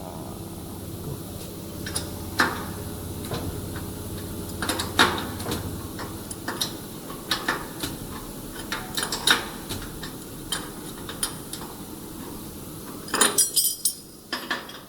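Scattered metallic clinks and taps of tools and parts on the steel frame of a band saw log-cutting machine during blade alignment, with a quick rattle of clinks near the end. A low steady hum fades out about five seconds in.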